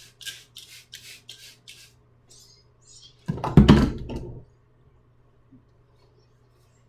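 A trigger spray bottle of all-purpose cleaner squirted about six times in quick succession, short hisses, then a louder burst of handling or wiping noise a little past the middle, over a faint steady hum.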